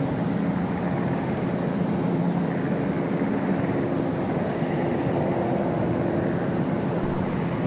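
Steady running rumble of a very long Rhaetian Railway electric multiple-unit train descending slowly, with a faint, even hum and no change in level.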